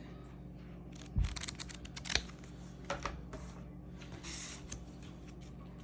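Handling of a tarot deck and its paper guidebook: scattered light clicks and taps of card and paper, a dull knock about a second in, and a brief rustle around four seconds in.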